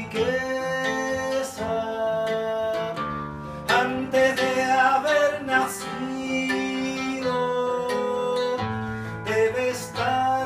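Acoustic guitar played live: plucked notes and chords ringing on, a new one struck every second or so.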